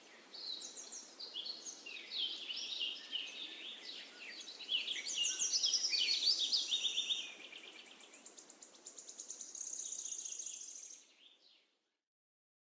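Birds chirping and singing, with quick high chirps and fast trills over a faint hiss. It is loudest about halfway through and cuts off abruptly to silence near the end.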